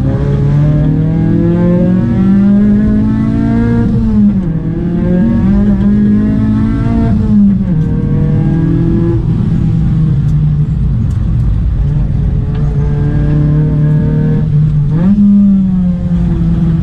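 Proton Wira 1.6's 4G92P SOHC inline-four engine driven hard. The pitch climbs steadily under acceleration, then the revs drop sharply and pick up again about four seconds in, near eight seconds, and once more near the end.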